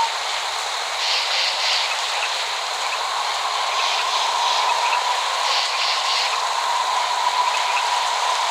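Steady rain hiss with no thunder, and a thin, slightly wavering tone running under it throughout.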